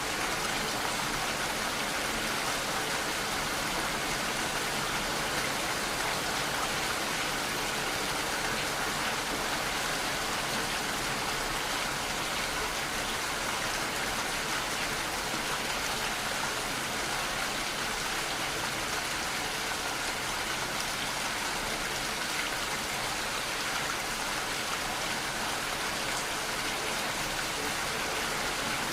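Steady rainfall: an even hiss of rain falling on surfaces, without change.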